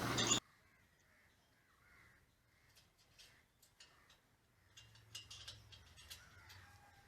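Faint bird calls with a few scattered faint clicks. Before them, a louder sound cuts off abruptly within the first half second.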